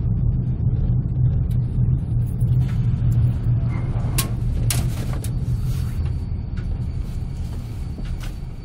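Low, steady rumble of a passenger coach rolling slowly on the rails, heard from inside the carriage, gradually fading as the train slows on arrival. A few sharp clicks come about halfway through and another near the end.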